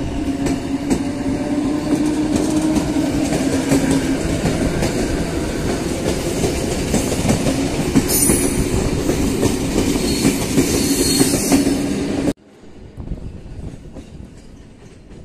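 Electric multiple-unit passenger train passing close by, its wheels clattering over the rail joints under a steady hum. About twelve seconds in, the sound cuts abruptly to a much quieter, distant train rumble.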